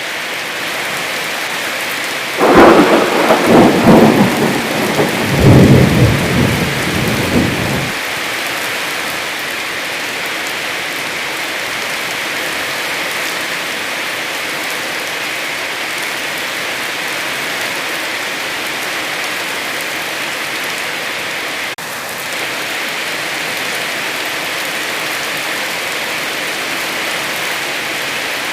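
Heavy rain falling in a steady hiss. About two and a half seconds in, a loud peal of thunder rolls in two surges and dies away by about eight seconds in.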